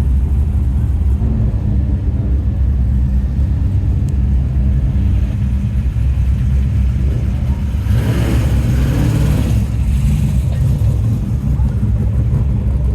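Tarmac rally cars' engines rumbling at low revs as they move off, with a louder surge of engine and exhaust noise about eight seconds in that lasts around two seconds as one car accelerates.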